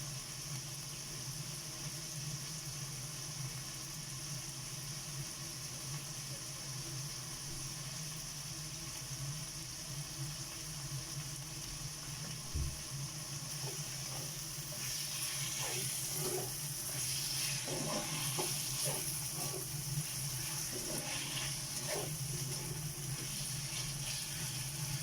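Beef sizzling and simmering in a pan over the steady hum of a kitchen exhaust fan. About halfway through, the sizzle grows louder and a series of light knocks joins it.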